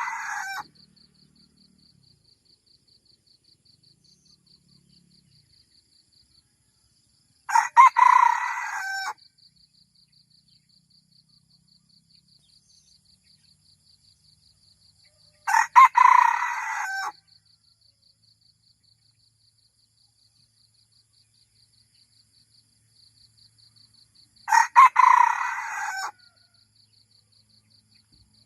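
Red junglefowl rooster crowing three times, each crow short and clipped, about eight seconds apart. A steady, fast-pulsing insect buzz runs underneath.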